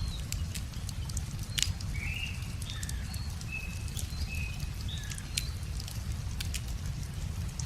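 Wood fire crackling, with irregular sharp pops, over a steady low rumble, while small birds give short chirps in the background.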